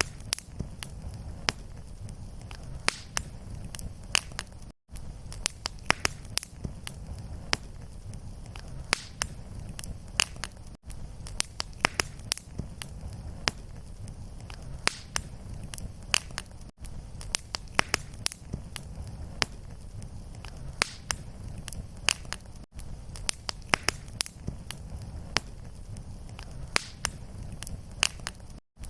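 Wood fire burning in a fireplace: irregular sharp crackles and pops over a low, steady rumble. A brief gap recurs about every six seconds, where the short recording loops.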